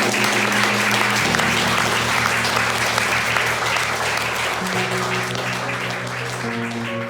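A group of people clapping and applauding, a dense patter of handclaps that eases off near the end, over soft guitar-backed music with held bass notes.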